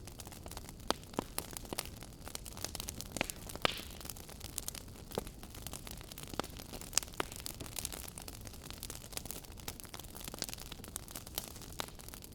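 Firewood burning with a steady soft hiss and constant crackling, many small irregular snaps and a few louder pops.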